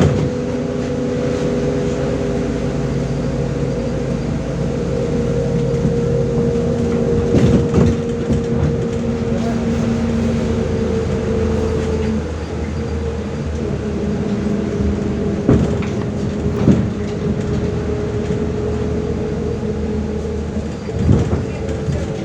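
Inside a moving MAZ-105 city bus: steady engine and drivetrain drone with a whine, whose pitch drops about halfway through, and a few knocks and rattles from the body over bumps.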